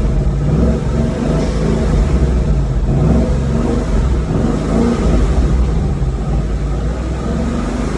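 Ford Mustang engine running with a deep, steady exhaust note whose pitch wavers slightly.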